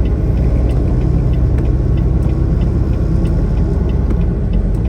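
Semi truck in motion, heard from inside the cab: a steady low rumble of engine and road noise with faint scattered clicks.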